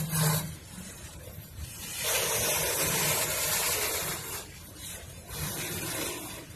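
Freight train cars rolling past close by: wheels on the rails giving a steady rushing noise that swells about two seconds in and fades again a little after four seconds.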